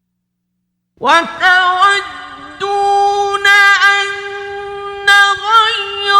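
A man's voice in melodic Quran recitation with tajweed. After about a second of silence it comes in loudly and holds long notes, decorated with wavering melismatic turns.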